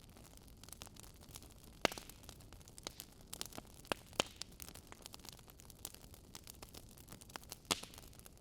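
Burning logs crackling: irregular sharp pops and snaps over a faint steady hiss. The loudest pops come about two seconds in, twice around four seconds in, and once near the end.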